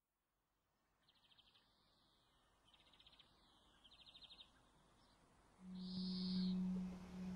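Faint buzzy, rapidly pulsed bird calls, three short ones and then a louder one about two thirds of the way in. As the louder call comes, a low steady tone of ambient music sets in, like a singing bowl or drone.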